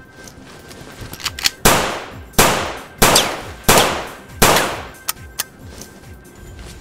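Five pistol gunshot sound effects about two-thirds of a second apart, each with a long echoing tail, with a few lighter clicks before and after.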